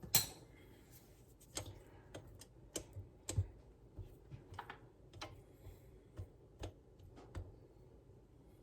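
Spatula knocking against a mixing bowl while flour is folded into thick brownie batter: irregular light clicks and knocks, one or two a second, the loudest just at the start.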